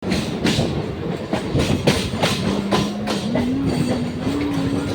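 Moving train: wheels clacking over rail joints in a run of sharp, uneven knocks, with a steady hum from about halfway in that creeps slowly upward in pitch.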